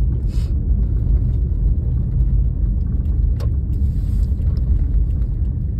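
Steady low road and tyre rumble inside a car driving on a rough, snowy road, with a single sharp click a little over three seconds in.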